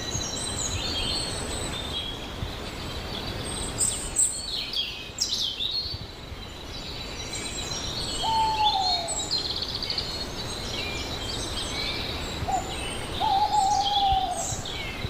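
Many wild birds calling: a steady stream of high chirps and trills, with a lower, falling whistled call about eight seconds in and two more near the end.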